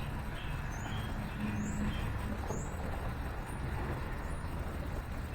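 Steady low rumble of city traffic, with small birds giving short, repeated chirps over it.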